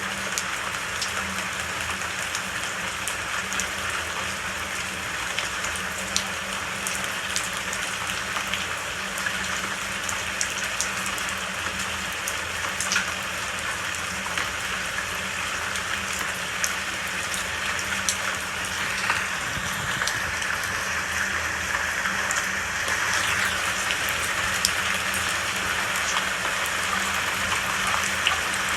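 Steady rain falling, an even hiss with many scattered sharp drop ticks, swelling slightly about two thirds of the way through.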